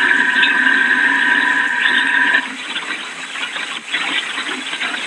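Steady rushing noise of hurricane wind and rain, with a high, steady whistling tone over it that cuts off about two and a half seconds in.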